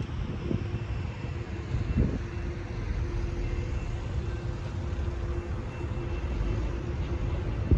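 Altamont Corridor Express passenger train running at low speed, a steady low rumble under a faint steady hum, with a few short thumps, about half a second and two seconds in and again near the end.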